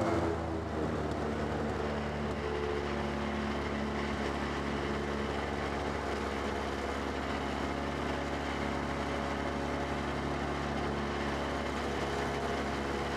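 Stock car engine idling steadily, heard from inside the car's cockpit.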